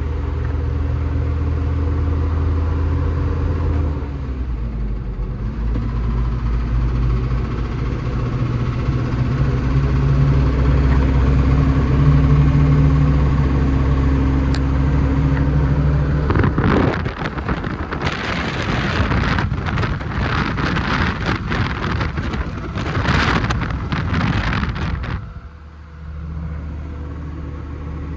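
Renault TRM 2000 truck's diesel engine running, its speed dipping briefly a few seconds in, with a noise whose origin the owner questions: a bearing, an injector or the exhaust manifold. For several seconds past the middle a loud rough, crackling clatter covers the engine's tone, then the steady running returns near the end.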